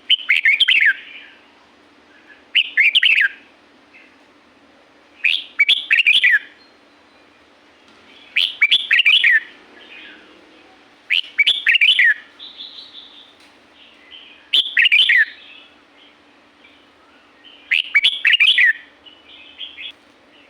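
Red-whiskered bulbul singing: a short, quick warbled phrase repeated about every three seconds, seven times.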